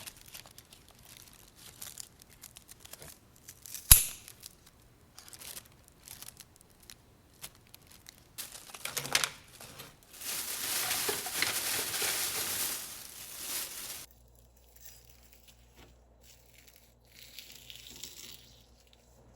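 Kitchen food-prep handling noises: crinkling and light clicks, with one sharp knock about four seconds in. Partway through, a steady rush of noise lasts about four seconds and then stops suddenly.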